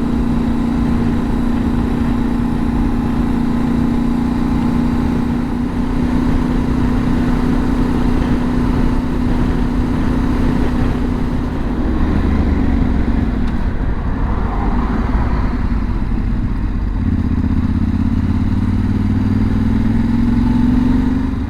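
Yamaha Ténéré 700 parallel-twin engine cruising at a steady note under heavy wind rush. About halfway through the note drops, and near the end it rises as the bike accelerates.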